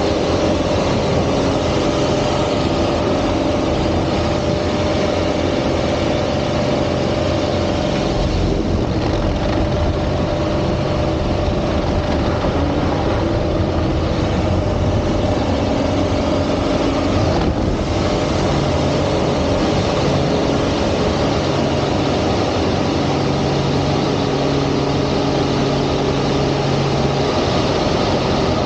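Aerobatic airplane's piston engine and propeller running hard and steadily, with the pitch of the drone shifting now and then.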